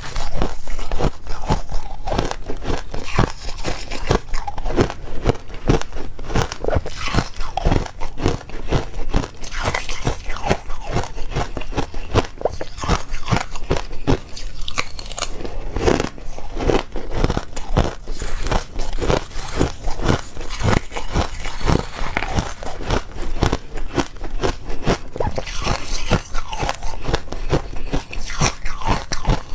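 Close-up crunching and chewing of ice: continuous rapid crackles as teeth break up ice in the mouth.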